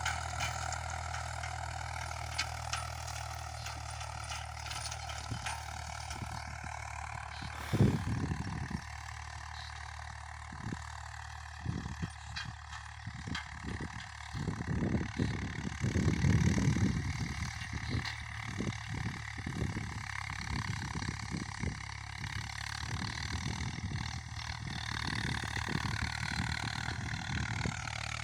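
Eicher 485 tractor's diesel engine running steadily, with a faint constant whine above the engine note. A sharp thump comes about eight seconds in, followed by irregular low bumps through the middle.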